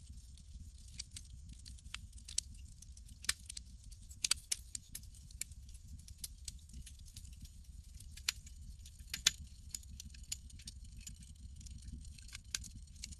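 Campfire crackling: irregular small snaps and pops, a few louder ones, over a low steady rumble.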